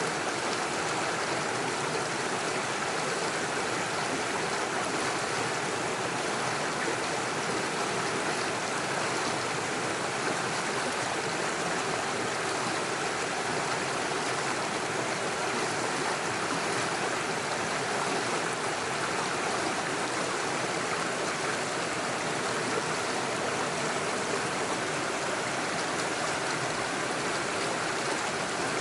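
Small stream rushing and splashing steadily over stones and small waterfalls.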